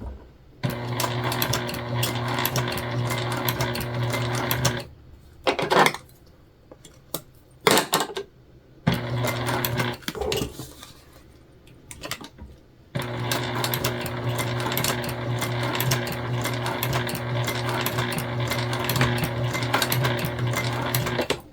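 Domestic sewing machine stitching through jelly vinyl as a bag handle is topstitched on. It runs steadily in three stretches, the last and longest about two thirds of the way through, with a few brief clatters in the pauses between them.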